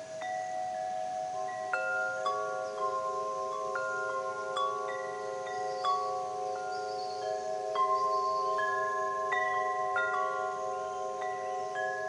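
Wind chimes ringing, with metal tones of several pitches struck at irregular moments, each ringing on long and overlapping the others.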